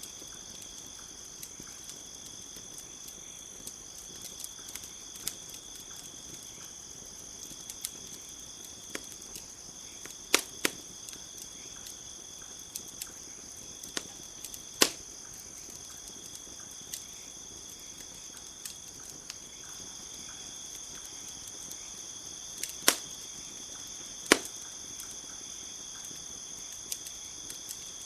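Campfire crackling, with scattered sharp pops, a few of them loud, over a steady high insect chorus.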